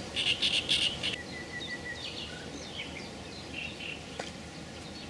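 Small birds chirping and calling over a steady outdoor background hiss: a quick run of scratchy chirps in the first second, a thin held whistle, then scattered short notes. A single faint click about four seconds in.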